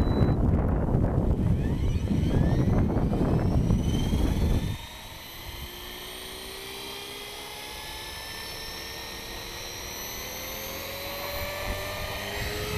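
Electric RC helicopter (Hobby King 450 Pro) spooling up: a motor-and-rotor whine rising slowly in pitch. Heavy wind buffeting on the microphone covers the first few seconds and stops abruptly about five seconds in.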